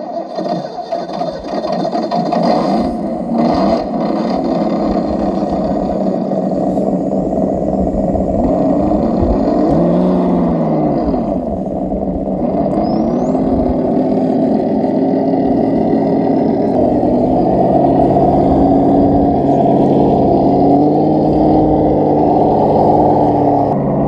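Simulated truck engine sound from an ESS-One electronic sound unit on an RC scale trail truck, running continuously. It revs up and back down about ten seconds in, then holds a steadier, stronger note later on.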